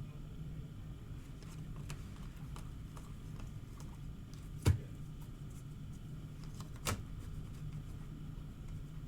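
Quiet handling of trading cards over a steady low hum, with two sharp taps about two seconds apart near the middle, the first one louder.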